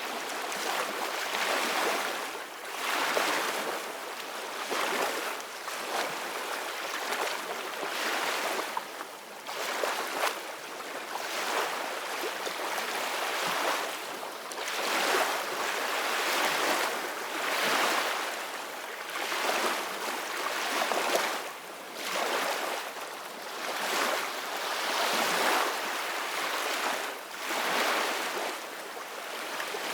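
Ocean waves breaking and washing on a shore, one after another every second or two, each surge swelling and falling back.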